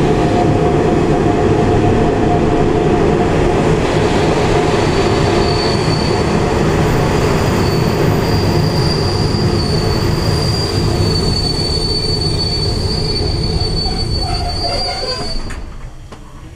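Czech Railways passenger train rolling over the rails as it slows into a station, heard from inside a compartment: a loud steady rumble, with a high steady squeal from the wheels and brakes from about five seconds in. The noise drops away sharply near the end.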